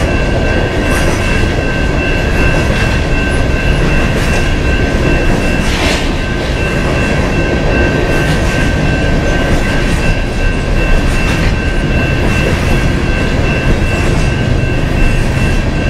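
Coal train's loaded-style open-top hopper cars rolling past close by: a steady, loud rumble of steel wheels on rail with a steady high whine over it.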